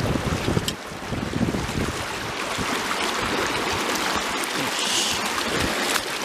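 Mountain stream water running steadily, with wind buffeting the microphone in the first couple of seconds and a brief higher hiss about five seconds in.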